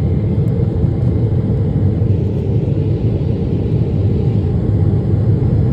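Steady low rumble inside the cabin of a Boeing 777-300ER in flight: engine and airflow noise.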